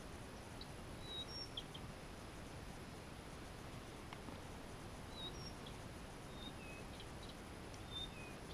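Small birds chirping: a few short, high calls about a second in, then more from about five seconds in, over a faint steady background hiss.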